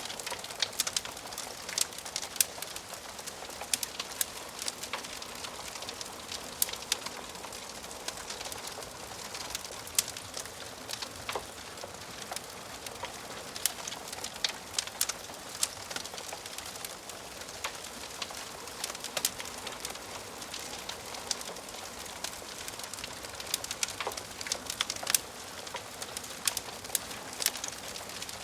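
Wood fire burning in a fireplace, crackling steadily with frequent irregular sharp pops and snaps over a soft hiss.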